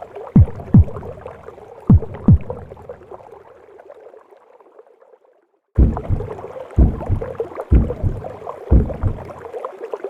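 Recorded heartbeat heard as in the womb: paired low lub-dub thumps over a steady whooshing womb noise. The sound fades away to silence a little past halfway, then starts again abruptly, the beats now coming about once a second.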